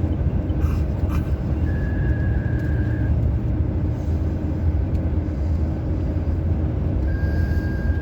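Road noise inside a moving police car's cabin: a steady rumble of engine and tyres at highway speed. A thin high tone sounds briefly about two seconds in and again near the end.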